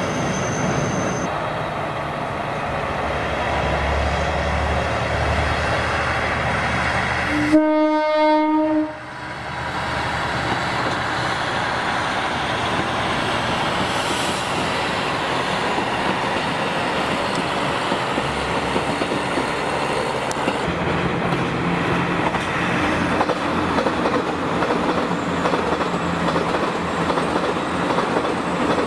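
Trains passing on the line: diesel railcars running by with a steady rumble of engines and wheels on the track. About eight seconds in, a train horn blows one steady blast of about a second and a half that cuts off sharply. Later an electric train rolls past.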